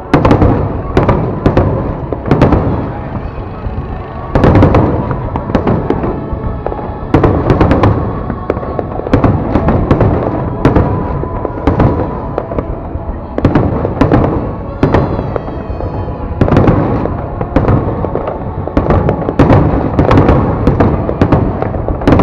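Aerial fireworks bursting in a fast, irregular series of loud bangs, often one or two a second, with no let-up.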